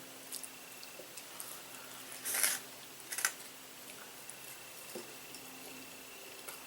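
Quiet eating sounds: soft clicks of a utensil and food, with a short crunchy rustle a little over two seconds in and a sharper one about a second later.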